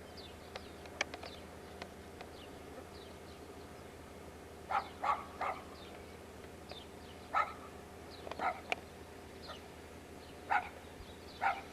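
A dog barking: short single barks, several in quick succession about a third of the way in, then more spaced out through the rest.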